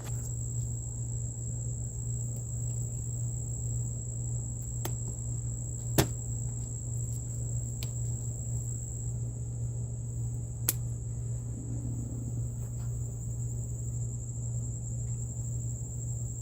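Steady high-pitched chirring of an evening insect chorus over a steady low hum, with two sharp clicks partway through.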